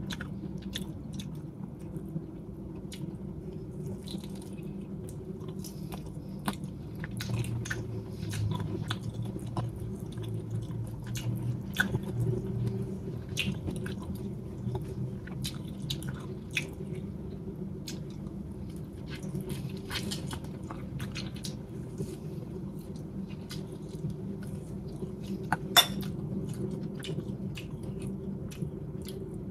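Close-up chewing of salt-cured chicken, with frequent short wet mouth clicks and smacks over a steady low hum; one sharper click near the end.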